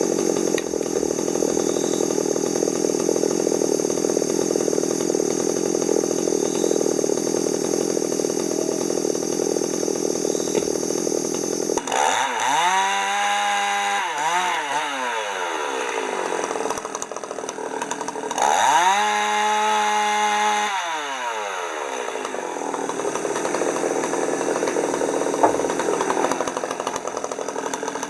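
Chainsaw running: a dense, steady sound for roughly the first twelve seconds, then revved up, held and let back down three times, about every six seconds.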